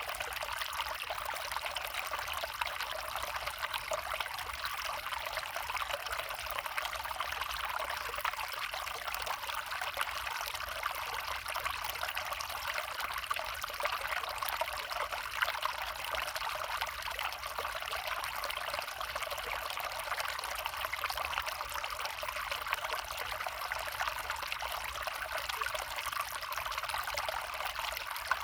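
A small brook flowing, with an even, unbroken sound of running water.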